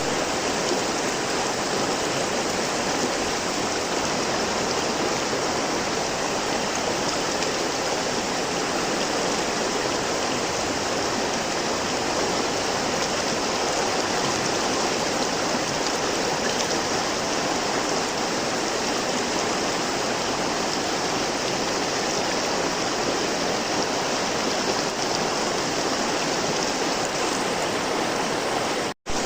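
River water flowing steadily in an even rush. It cuts out for an instant near the end.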